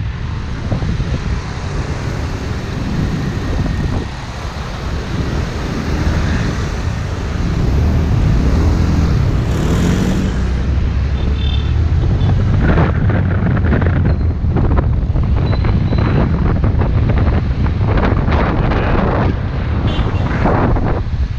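Wind buffeting the microphone over the engine and road noise of a motorbike riding through traffic, with the engine note rising briefly about nine seconds in.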